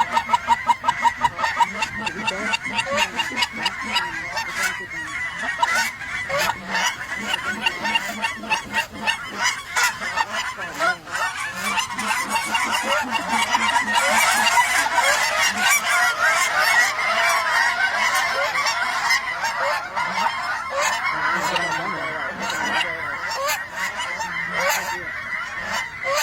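A large flock of geese honking, many calls overlapping into a dense clamour that grows thicker about halfway through.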